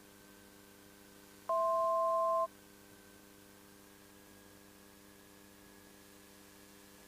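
A single electronic beep of two steady pitches sounding together, lasting about a second, over a faint steady hum in the headset audio feed.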